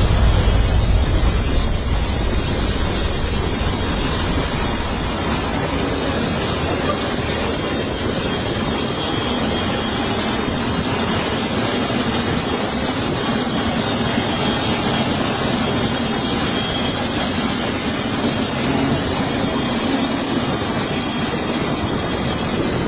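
Airplane engines running: a steady rushing noise with a high, even whine.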